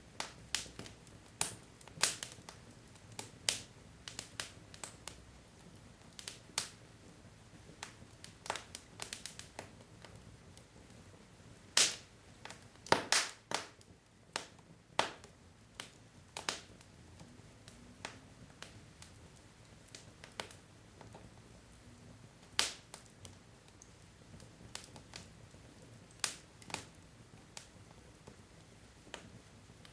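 Wood logs burning in a fireplace, crackling with irregular sharp pops and snaps over a faint low rumble of the fire, the loudest cluster of pops about twelve seconds in.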